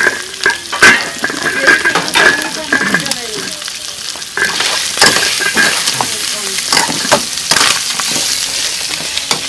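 Pork rib pieces sizzling in a pot as a metal spoon stirs them, with repeated sharp clinks and knocks of the spoon and a metal pot lid against the pots.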